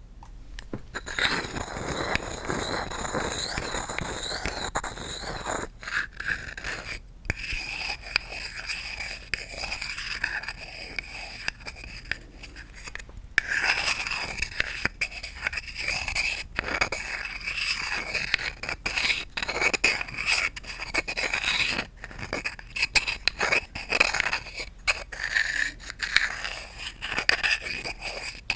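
Wooden objects being scraped and rubbed close up, a dense run of short scratchy strokes with a faint squeak in them, broken by a few brief pauses.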